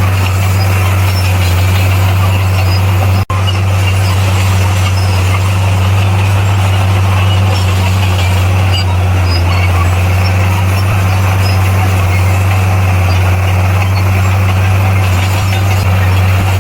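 Bulldozer's heavy diesel engine running steadily with a deep, even drone, broken by a momentary drop-out about three seconds in.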